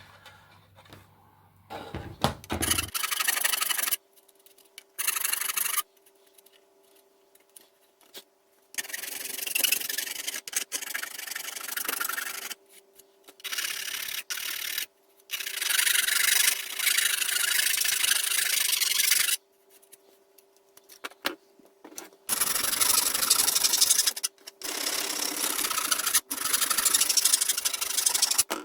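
A hand file rasping along the edges of 3D-printed mask pieces to smooth them, in stop-start bouts of a second or several seconds with short pauses between. A faint steady hum runs underneath.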